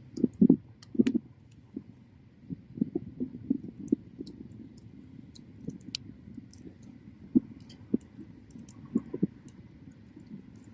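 Wood bonfire crackling, with irregular sharp pops and snaps over the low flutter of the flames; a cluster of louder pops comes in the first second or so and another single loud pop about seven seconds in.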